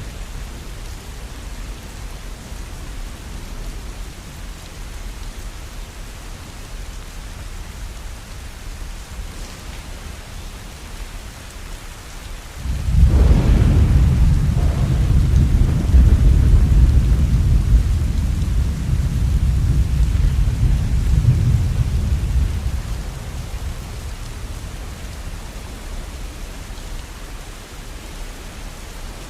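Steady rain falling, with a loud roll of thunder that breaks in about halfway through, rumbles deep and low for about ten seconds, then fades back into the rain.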